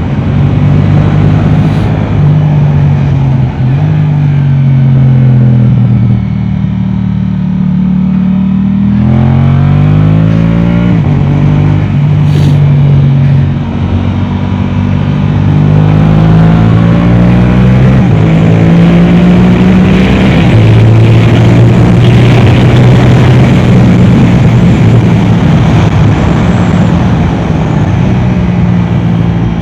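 Yamaha R7's parallel-twin engine through an Akrapovic exhaust, revving hard and backing off in turn on track, its pitch climbing and dropping over and over. About six seconds in it falls to a lower, softer note, then climbs steeply again.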